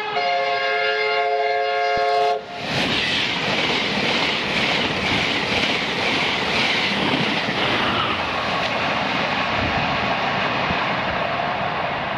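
A Virgin 'Pretendolino' train, a Class 90 electric locomotive with Mk3 coaches, holds a horn note until about two seconds in, then passes at speed. Its passing is a loud rush of wheels and air with a rapid clatter of wheels over the rail joints, easing off after about eight seconds.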